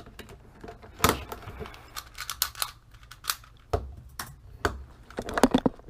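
4x4 Rubik's cube being turned by hand, its plastic layers clicking and clacking in an irregular run. The cube is stiff: the solver says it is tightened too much and needs lubing.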